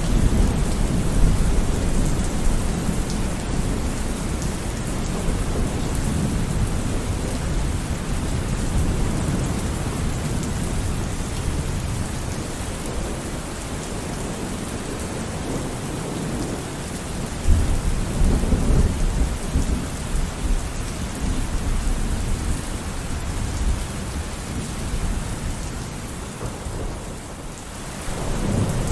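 Steady rain falling through a thunderstorm, with thunder rumbling low underneath. A louder roll of thunder breaks in a little past halfway, and near the end the storm eases briefly before building again.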